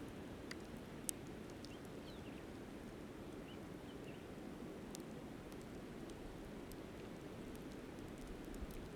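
Campfire crackling with scattered sharp pops, the loudest about a second in, over the steady rush of a flowing river. A few short, faint bird chirps in the first half.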